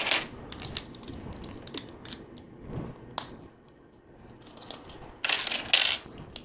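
Plastic LEGO pieces clicking and clattering as bricks are handled and pressed together, with a louder rattle of loose pieces being sorted about five seconds in.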